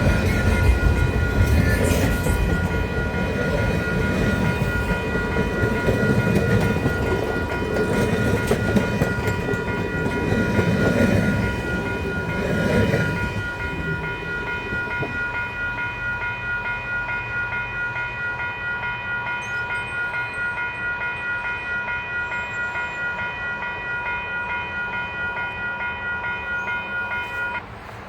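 A train rolls past with a rumble and clickety-clack of wheels on rail that fades away after about 13 seconds, while a level-crossing warning bell rings with a steady ringing tone throughout. The bell cuts off suddenly near the end.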